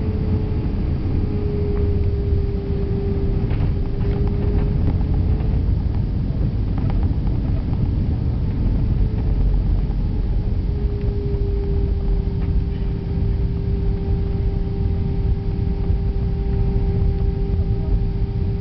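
Cabin noise aboard an Airbus A321 on the ground after landing: a steady low rumble with a steady engine whine that dips slightly in pitch in the first few seconds, and a few faint rattles around three to five seconds in.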